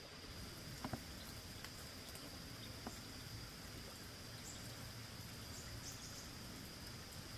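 Quiet outdoor ambience with a steady high-pitched insect tone and a few faint clicks, about a second in and again near three seconds.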